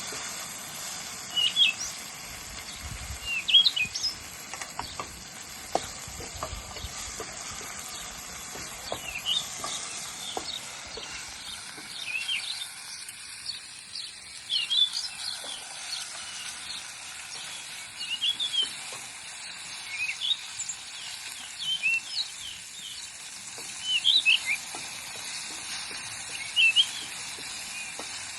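Wild birds chirping repeatedly in short high calls, over a faint hiss with light clicks that fades out about eleven seconds in.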